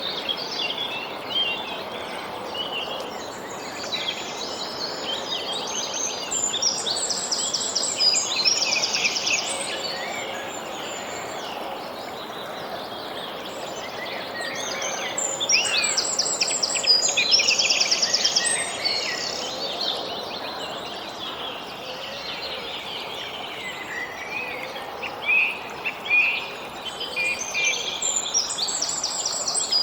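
Songbirds singing over a steady outdoor background hiss: a high, rapid trilling phrase comes about every ten seconds, three times, with scattered chirps between.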